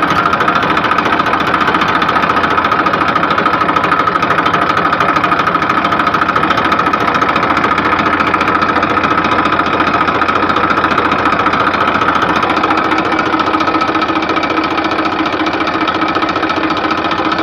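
A mini tractor's small engine running steadily with a fast, even knocking beat.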